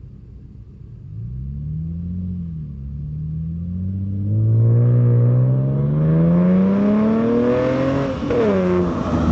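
Car engine accelerating hard. The revs climb from about a second in, dip briefly, then rise steadily and get louder for several seconds, drop sharply near the end and start climbing again.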